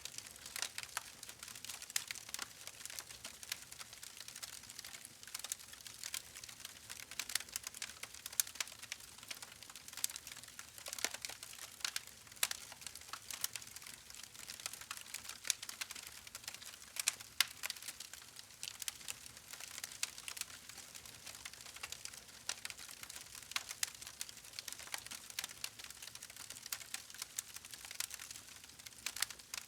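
Campfire burning with continuous irregular crackling: many small sharp pops and snaps over a soft hiss of burning wood.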